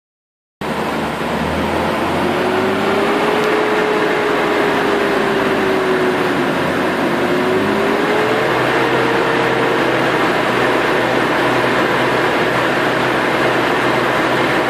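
BMW M3 running, a steady noise with a thin whine that drifts slowly up and down in pitch: the weird noise the owner is trying to identify.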